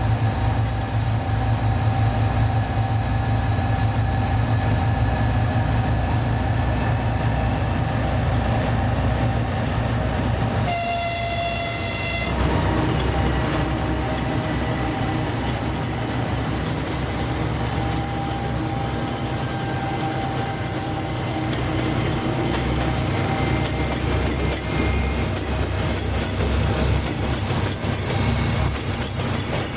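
Diesel train running, with a low steady rumble and some wheel clatter. A little over ten seconds in, the locomotive's horn sounds once for about a second and a half.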